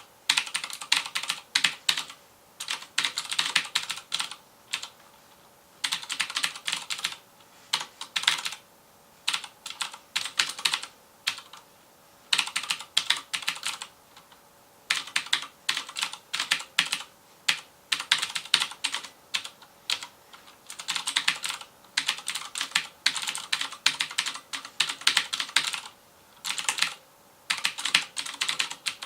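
Fast typing on a FILCO Majestouch Convertible 2 mechanical keyboard with clicky Cherry MX Blue switches: rapid runs of sharp key clicks in bursts of a second or two, broken by short pauses between them.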